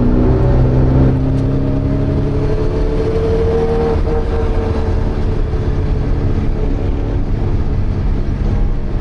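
Porsche 924's 2.0-litre four-cylinder engine heard from inside the cabin under racing load. Its pitch rises steadily for about three seconds, then eases off and holds, over a constant rumble of road and tyre noise.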